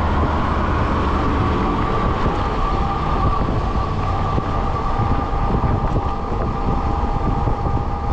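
Ecotric fat-tire e-bike riding along the road: wind buffeting the microphone over the rolling hum of the fat tires, with a steady high whine from the hub motor and a second, lower whine joining about two and a half seconds in.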